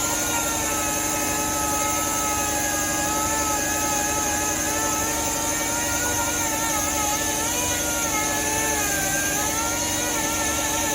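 A power sander running steadily against a car body panel, its motor pitch wavering slightly as it is pressed and moved over the metal, with a constant high hiss.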